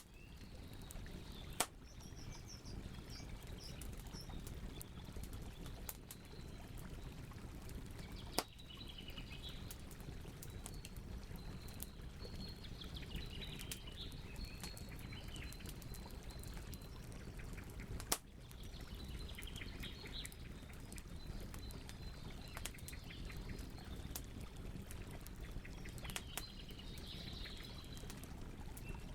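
Campfire crackling and popping over a steady low rumble, with three sharp loud pops, about one and a half, eight and a half and eighteen seconds in. Birds chirp and twitter on and off behind it.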